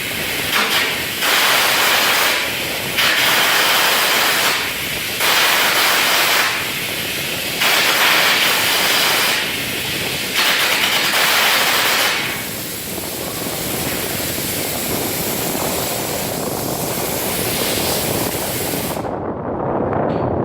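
Electric welding arc hissing and crackling in runs of a second or two with short breaks, then burning more steadily and quieter; it cuts off near the end, followed by a few sharp clicks.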